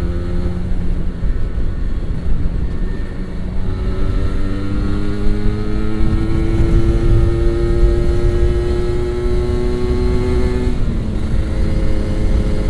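Kawasaki Ninja RR 150's two-stroke single-cylinder engine pulling on the road. Its pitch drops about four seconds in, climbs steadily for several seconds, then drops again near the end. The rider likens the engine's note to running too rich ('wet') and puts it down to its tuning being off and overdue service.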